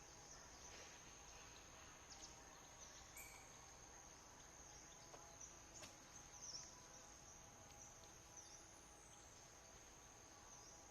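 Near silence with a faint, steady, high-pitched insect trill, broken by a few brief dips and soft ticks.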